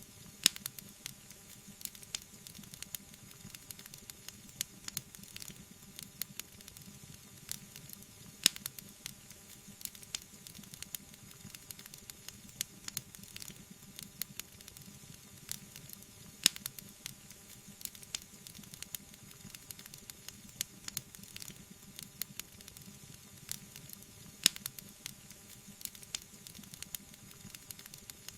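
Wood fire burning in a fireplace: steady soft hiss with constant small crackles and a few sharp, louder pops.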